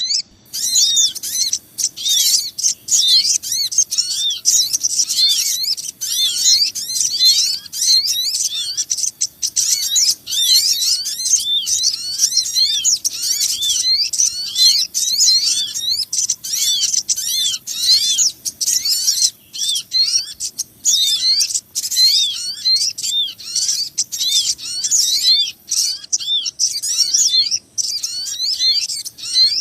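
Bird-lure recording of small birds calling in an agitated, noisy chorus: dense, rapid high chirps, each rising and falling in pitch, repeated several times a second without pause. It is the kind of excited small-bird racket played to lure small birds to a trap.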